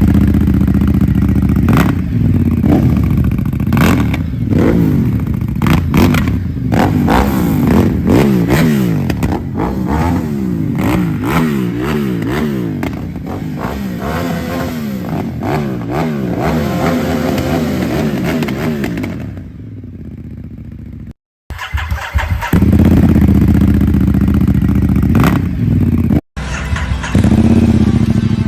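Ducati Diavel's L-twin engine revving again and again, its pitch rising and falling in quick blips, then easing off to a lower, quieter run. The sound drops out abruptly twice, and the loud engine picks up again after each gap.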